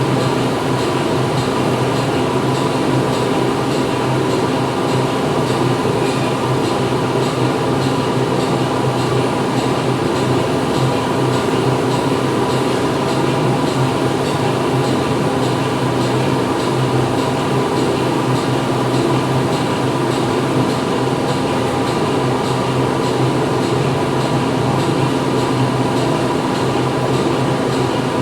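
Steady factory machinery noise: a continuous mechanical drone with a low hum and a few fixed tones over a dense hiss, without pauses or distinct impacts.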